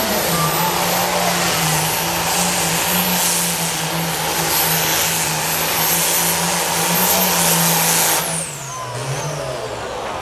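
Super Stock pulling tractor engine running at full throttle down the track, with a high, steady turbocharger whistle over the engine. About eight seconds in the throttle shuts off and the turbo whine winds down as the pull ends.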